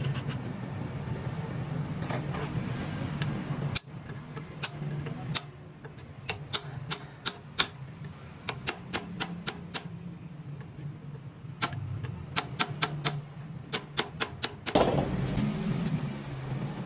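A machine hums steadily while a long run of sharp, irregular clicks comes several a second, often in small clusters. Near the end comes a louder burst of noise.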